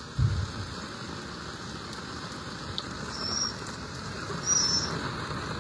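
A steady hiss of water, with a dull low thump just after the start, the loudest moment, and a smaller bump near the end.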